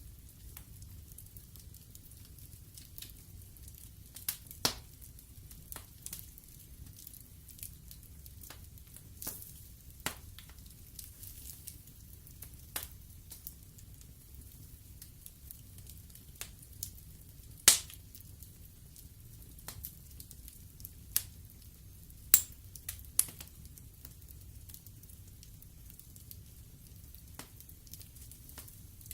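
Wood fire burning in an open fireplace: irregular crackles and sharp pops from the burning logs over a low, steady rumble of the flames, with the loudest pop about two-thirds of the way through and a quick cluster of pops a few seconds later.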